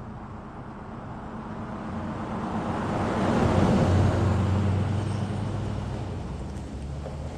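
1996 Honda CBR900RR's inline-four engine on a drive-by: it approaches, is loudest about three and a half to four seconds in, then fades away as it rides off.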